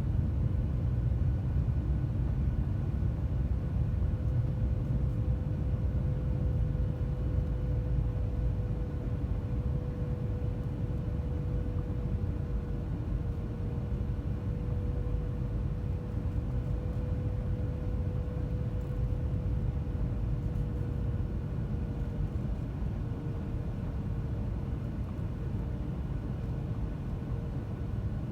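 Cabin noise inside a Boeing 737-900ER airliner: a steady low rumble of engines and airflow, with a steady engine tone over it, easing a little in level near the end.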